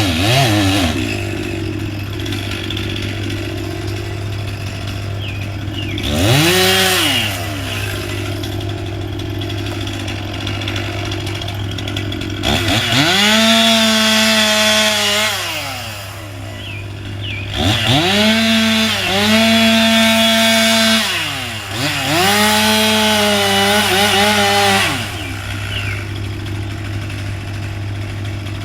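Two-stroke chainsaw idling, revved briefly once and then run up to full speed three times for about three seconds each, dropping back to idle between runs, as when cutting through wood.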